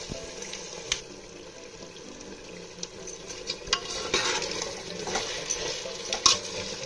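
Chicken and spices frying in an open pressure cooker with a steady sizzle. A steel spoon gives a single clink about a second in, then scrapes and clinks against the pot as the masala is stirred in from about halfway through.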